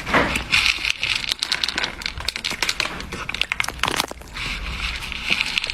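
Something crinkling and crackling: a dense run of irregular sharp clicks over a steady hiss, dipping briefly just after four seconds in.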